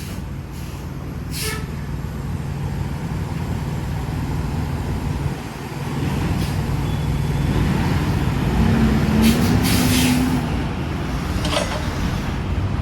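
Diesel engine of a semi-truck running steadily as the tractor-trailer reverses, getting louder about six seconds in and rising in pitch for a couple of seconds near the middle. Short hisses of air are heard, the strongest about nine seconds in.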